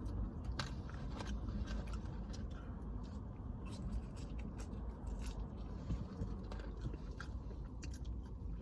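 Close-up chewing and biting of a sandwich, with many small sharp mouth clicks scattered throughout.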